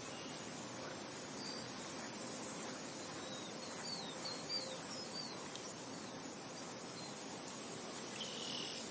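Steady wind noise, an even hiss with no gusts. A few brief high chirps come through in the middle and again near the end.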